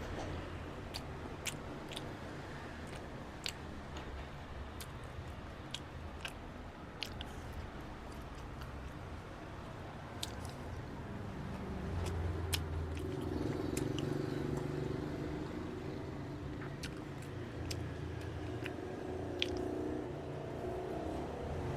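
Close-up mouth sounds of someone eating ice cream: chewing and biting with scattered sharp clicks and smacks, over a steady low hum.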